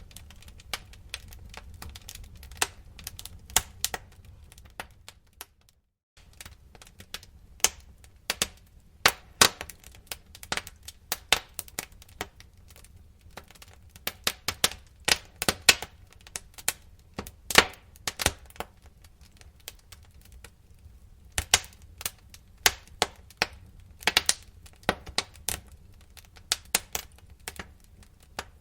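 Wood fire crackling in a fireplace: irregular sharp pops and snaps, several a second and varying in loudness, over a steady low rumble of the burning. The sound drops out briefly about six seconds in.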